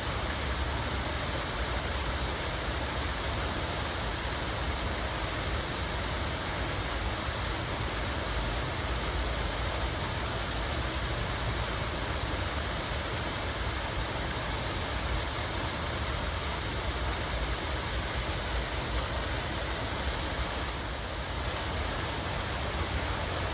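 Water running steadily: an even, unbroken rush of flowing water with a low rumble underneath.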